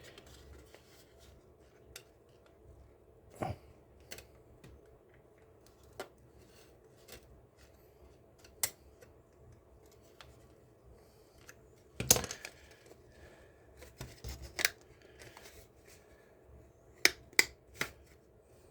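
Sporadic clicks, taps and sharp snaps of the plastic parts of a hot-glued scale model car being pried at and worked apart. The loudest snap comes about twelve seconds in, and a quick run of three comes near the end.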